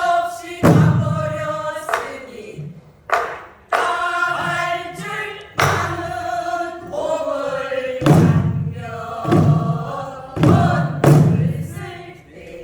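A group of voices singing a Korean folk song together while beating buk barrel drums, with a heavy drum stroke every second or two cutting across the sung lines.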